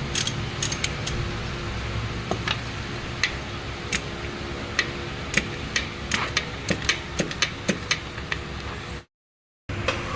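Metal tools clicking and tapping on parts during a clutch job, in irregular sharp ticks about once or twice a second over a steady mechanical hum.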